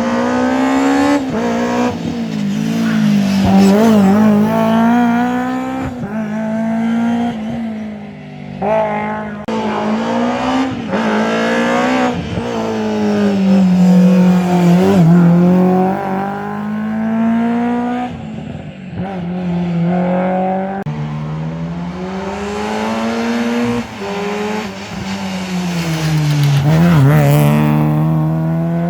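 Rally car engine revving hard through the gears on a stage, its pitch climbing and then falling at each gear change, over and over, with the engine note swelling and fading as the car passes.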